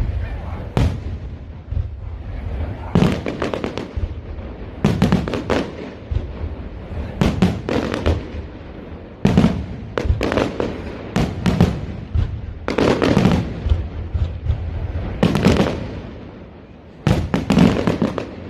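Fireworks display: aerial shells going off one after another, roughly one to two bursts a second, several with a quick crackle, over a steady low rumble. There is a short lull near the end, then another loud burst.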